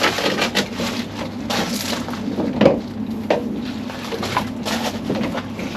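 Rubber boot-lid weatherstrip seal being pulled off the metal flange of the boot opening: a run of irregular crackles and scrapes, with one louder knock about two and a half seconds in.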